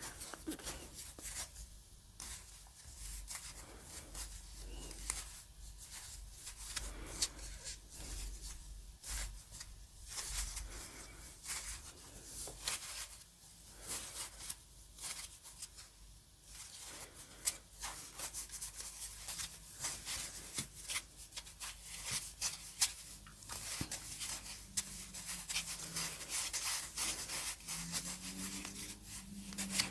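Soft, irregular rubbing and scratchy rustling of hands squeezing and handling a flour-filled rubber balloon squishy, with a faint low tone near the end.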